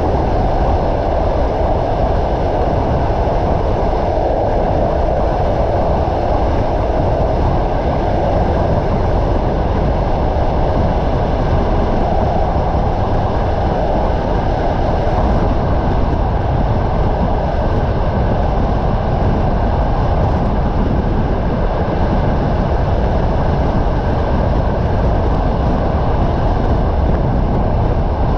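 Passenger train running steadily at speed, heard from a coach window: a continuous even rumble and rush of wheels on the track, with no distinct clicks.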